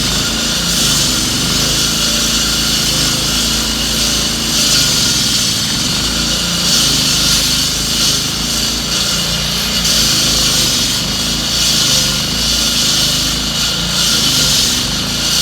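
Road-works machinery running steadily, with a low engine drone under a loud, high-pitched hiss.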